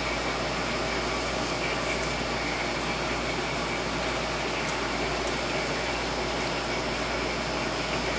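Steady, even room noise like a running fan or air-conditioning unit, with a faint constant high whine.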